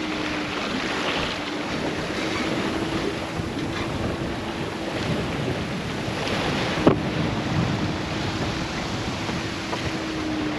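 Wind and sea rushing around a sailboat under way on the open ocean, with wind buffeting the microphone. A faint steady hum runs underneath, and a single sharp knock sounds about seven seconds in.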